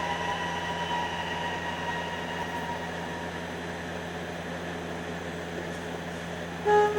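Semi-truck's engine running steadily at low speed as the rig backs slowly, then, near the end, a short honk of the truck's horn in two quick pulses: the driver's signal that he has finished backing and wants the judges to measure his distance from the dock.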